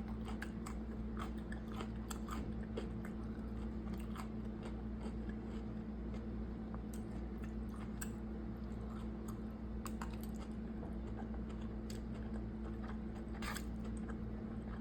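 A person chewing food close to the microphone, with scattered small crunches and clicks, over a steady low hum.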